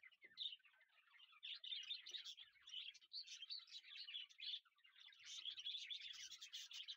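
Many small birds chirping at once, a faint, dense, continuous chatter of short high-pitched calls.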